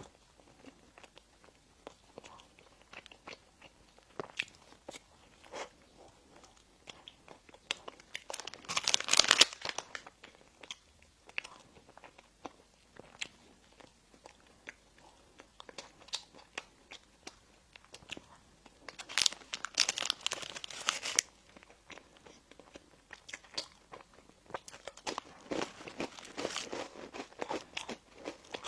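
Close-miked eating of bakery bread and pastries: scattered chewing and small mouth clicks, broken by three louder, noisier stretches of a second or two, about a third of the way in, two-thirds of the way in and near the end.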